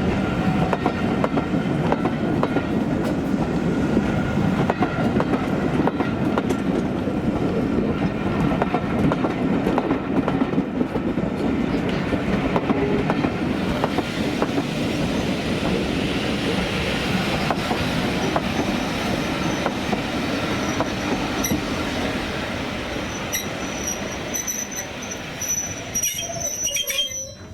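A train running past on the rail line, its wheels clicking over the rail joints under a steady rumble. In the last few seconds a high wheel squeal sounds as the train noise fades away.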